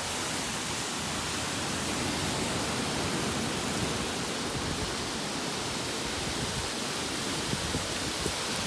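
Severe storm of heavy rain and wind, a steady even rushing hiss.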